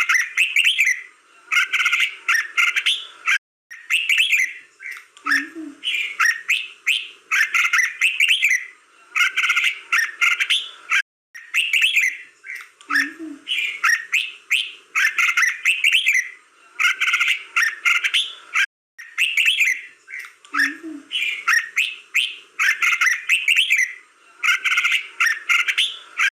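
Red-whiskered bulbul singing: short, bright warbled phrases repeated about once a second, with the song cutting off briefly three times.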